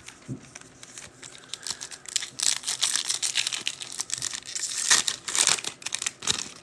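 Wrapper of a trading card pack crinkling and tearing in the hands, a dense crackle that builds from about two seconds in.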